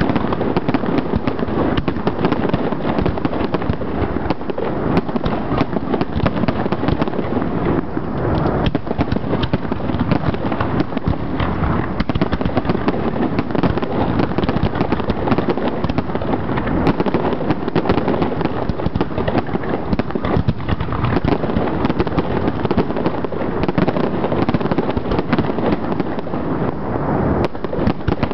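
Aerial fireworks display: a continuous barrage of overlapping bangs and crackling from shells bursting overhead, with no let-up.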